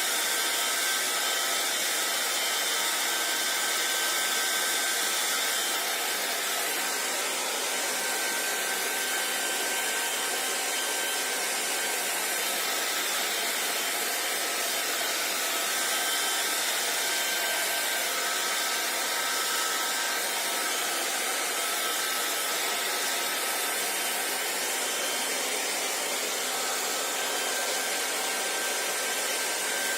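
Electric hair dryer running steadily: a continuous rush of blown air with a faint steady whine from the motor.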